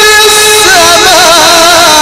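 A male voice chanting Quran recitation in melodic tajweed style. It holds one long steady note, then about half a second in drops into a wavering, ornamented run.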